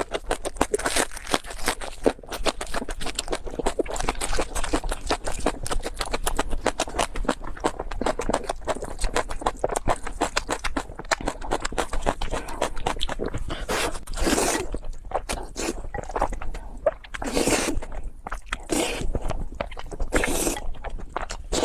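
A person eating Chinese food: a dense run of rapid clicks, scrapes and crunchy chewing sounds, with a few longer, louder swishes in the second half.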